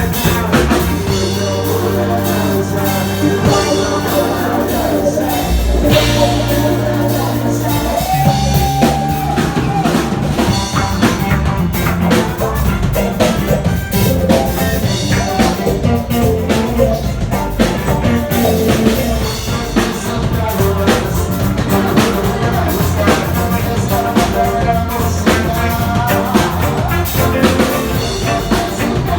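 A band playing reggae-ska with drum kit and bass, with some singing.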